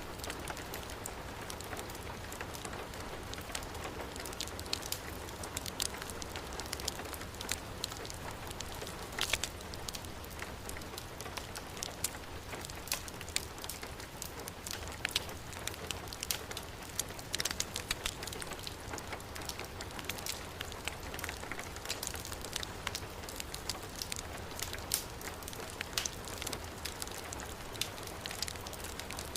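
Heavy rain falling steadily, mixed with a wood fire crackling, with frequent sharp pops and snaps throughout.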